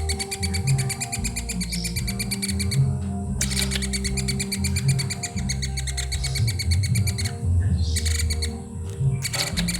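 Young woodpecker calling in a fast, continuous chatter of high ticking notes. It breaks off briefly about three seconds in and again for about two seconds near the end, over background music with held low bass notes.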